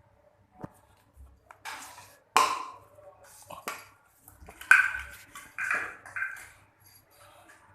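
A bottle being knocked and batted about by a Lhasa Apso at play: irregular sharp knocks and clatters, the loudest about two and a half and five seconds in.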